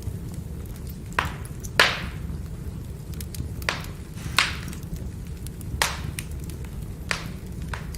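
Burning firewood crackling: about seven sharp pops and many faint ticks over a steady low rumble of the fire, the loudest pop just under two seconds in.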